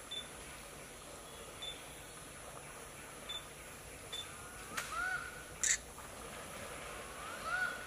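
Faint outdoor ambience with a steady high hiss and scattered small ticks. Two short bird calls, each rising then levelling off, come about 5 seconds in and again near the end. A single sharp click between them is the loudest sound.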